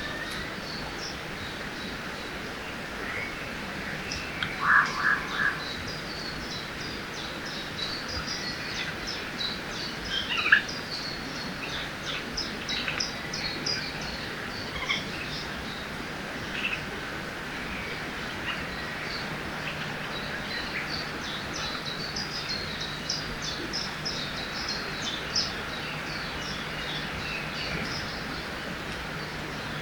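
Forest ambience: many small birds chirping and calling throughout over a steady background rush of a river. A louder call of a few quick notes stands out about five seconds in.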